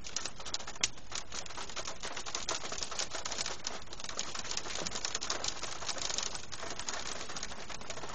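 Hail hitting the roof and windows of a MINI car, heard from inside the cabin: a dense, steady clatter of small sharp clicks.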